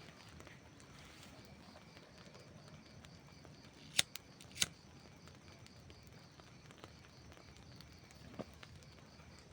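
Campfire burning with a faint steady hiss and sharp crackles of burning wood: three close together about four seconds in, and a softer one near the end.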